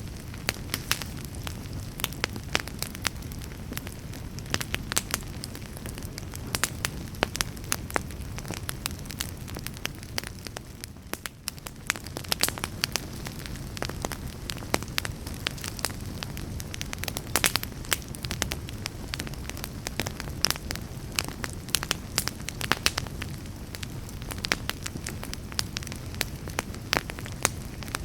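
Wood fire burning in a fireplace: a steady low rumble of flames under frequent, irregular sharp crackles and pops from the logs, with a brief lull about eleven seconds in.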